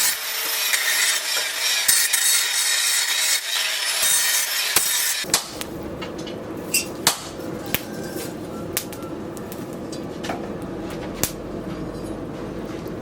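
Rasping, scraping work on a steel blade for about five seconds, then it stops and scattered light metallic taps and clinks follow over a low hum.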